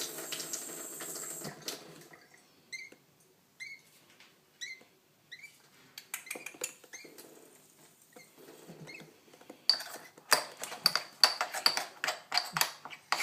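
Young bird begging for food: short rising cheeps about once a second, then a faster, louder run of sharp cheeps from about ten seconds in. A rustling noise is heard at the start.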